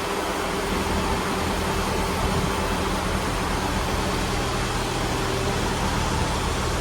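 Class 158 diesel multiple unit idling at the platform: a steady engine hum over a broad hiss.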